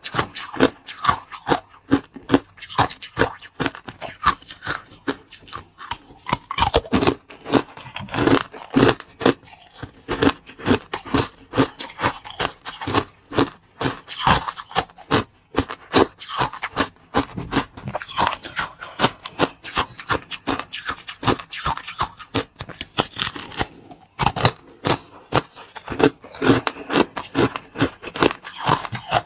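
Close-miked eating sounds: rapid, dense crunching and scraping as the food is bitten and chewed, bite after bite without pause.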